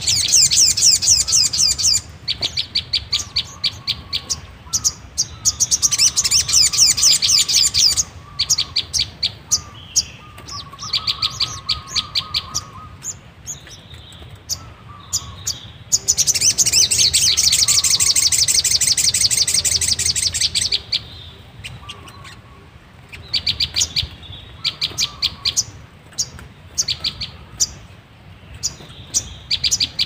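Sogon birds calling: loud, rapid, high chattering trills in bursts of a few seconds, the longest about halfway through, with shorter runs of sharp chips between them. A caged decoy sogon is calling to wild sogon in the branches above.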